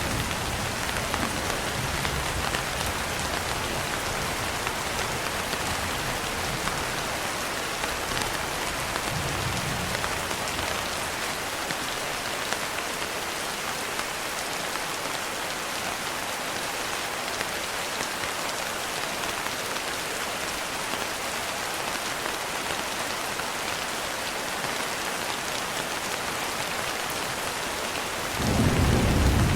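Steady rain falling, with low rolls of thunder: one rumble dies away over the first ten seconds or so, and another swells in near the end.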